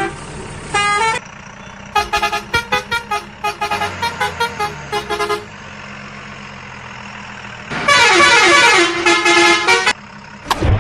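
Cartoon vehicle horns honking in little tunes over a steady engine drone: a short phrase about a second in, a quick run of short toots, then a long loud horn phrase with falling notes near the end.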